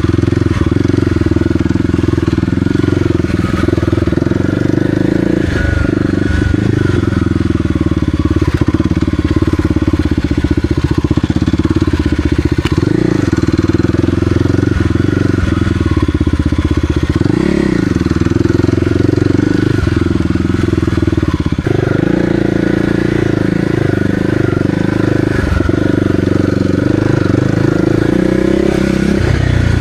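Kawasaki KLX300R dirt bike's single-cylinder four-stroke engine running while riding a trail, its pitch rising and falling with the throttle.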